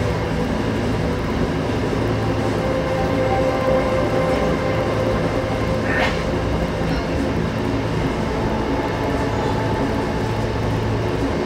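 Commuter rail coach in motion: a steady rumble of wheels on rail under a continuous hum, with one brief higher-pitched sound about six seconds in.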